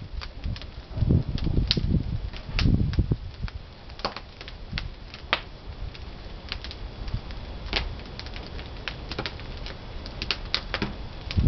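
Pine firewood crackling as it burns in the firebox of a traditional wood-fired kiln: irregular sharp cracks and pops, with a couple of low rumbling swells in the first three seconds.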